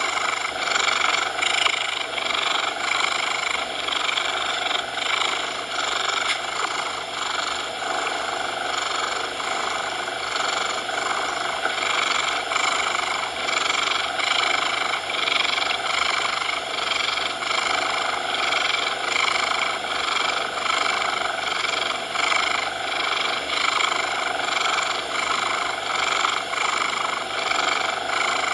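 Cat purring steadily with a faint regular pulse, blended with an even hiss of coloured noise.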